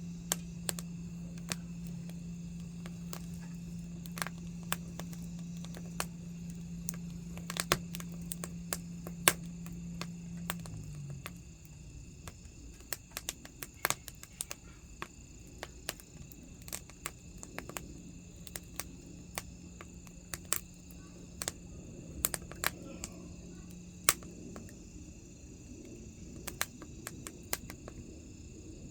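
Wood fire burning, with irregular crackles and sharp pops from the burning logs. A steady low hum runs underneath and dies away about a third of the way through.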